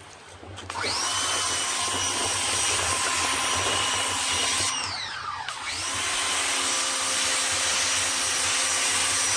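Greenworks GPW1602 electric pressure washer's motor and pump spinning up with a loud spray hiss, running steadily, winding down about halfway through, then starting again a second later as the trigger is squeezed, released and squeezed again.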